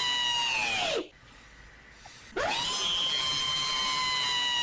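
A high, steady whine with overtones, like a motor spinning, that glides down and cuts off about a second in, then after a short pause sweeps sharply up and holds again. It is a sound effect played twice.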